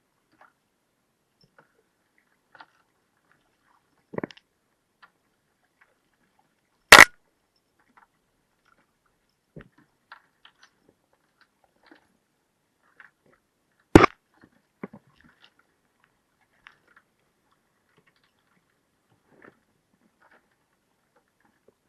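Two loud, sharp knocks about seven seconds apart, with a softer knock before them and faint scattered clicks and taps throughout.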